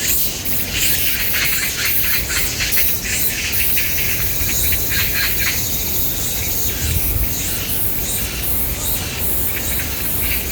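Wild birds calling with many short, sharp chirps and squawks, over a steady high insect buzz.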